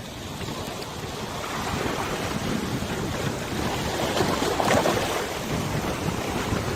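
Wind over open river water, buffeting the microphone, with water washing and splashing: an unsteady rushing noise that swells about four to five seconds in.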